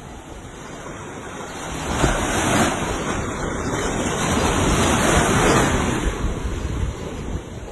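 Sea waves breaking on a beach: the surf swells about two seconds in, washes loudest through the middle and eases off near the end. Wind rumbles on the microphone.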